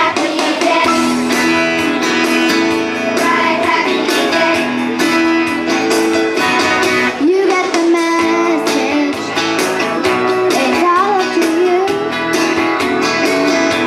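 Children's chorus singing with a strummed guitar accompaniment.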